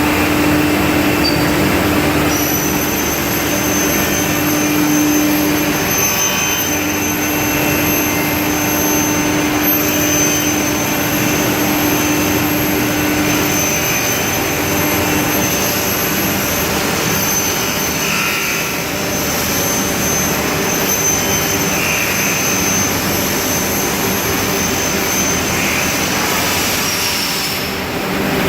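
Steady loud roar of industrial machinery from a billet heating furnace and hot log shear line running, with a high steady whine that comes in about two seconds in and stops near the end, and a low hum through the first half.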